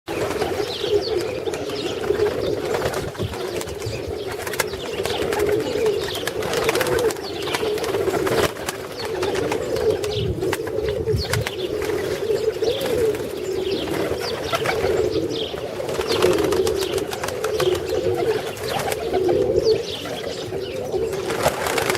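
Several marbled Baku pigeons cooing at once, a steady overlapping warble with short high chirps and scattered clicks over it.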